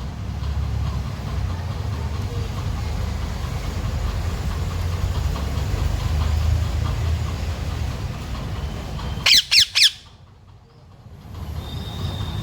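A green parrot squawks three times in quick succession, sharp shrill calls that sweep down in pitch, about nine seconds in, over a steady low rumble.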